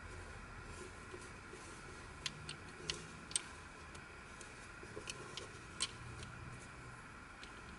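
Plastic pieces of a Wheel of Time twisty puzzle clicking against each other as they are handled, about nine sharp, irregular clicks, most of them in the middle of the stretch.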